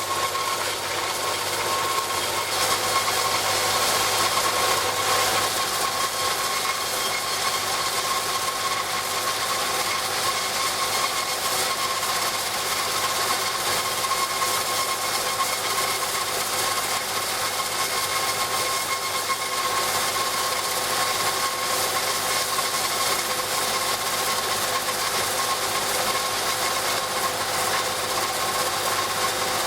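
Homemade beaded-wire rock saw running steadily as it cuts stone: a constant mechanical noise with a steady whine.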